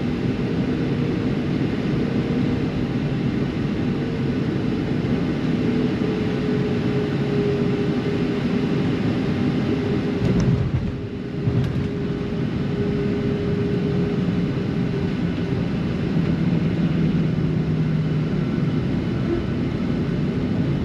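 Boeing 737-700 cabin noise during landing, heard from inside the cabin: a steady roar of CFM56-7B engines and rushing air with a hum whose pitch drifts slightly, briefly dipping about halfway through with a couple of sharp clicks.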